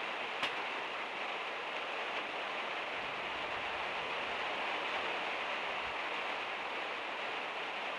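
Heavy rain drumming steadily on the van's metal roof, heard as an even hiss, with one sharp tick about half a second in.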